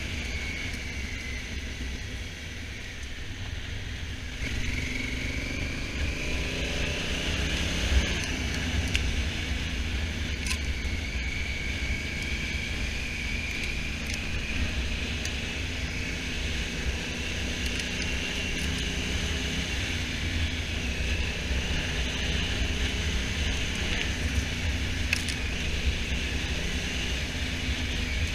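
Honda Africa Twin motorcycle under way: the engine runs beneath a steady rush of wind noise. The engine pitch climbs from about four to eight seconds in as it accelerates.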